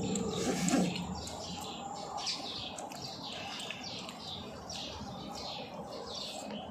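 Small birds chirping, a steady run of short falling chirps about two to three a second.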